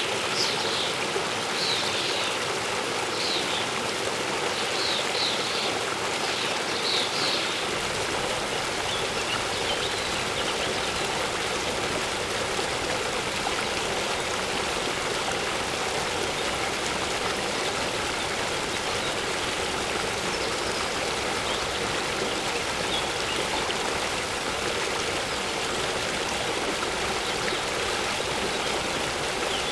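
Steady rushing of a waterfall. Birds chirp with short high notes several times in the first seven seconds, then a few faint chirps later.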